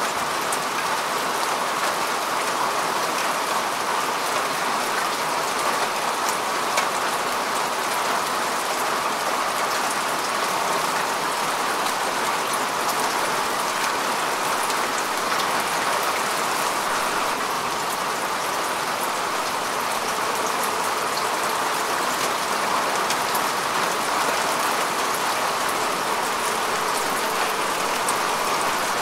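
Steady rain falling on grass and earth, an even patter of many drops with fine ticks of single drops throughout.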